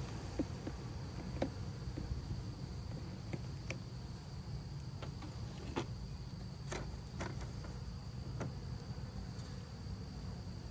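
Honeybee swarm buzzing in a steady low hum, with scattered sharp clicks and knocks from the bees being handled.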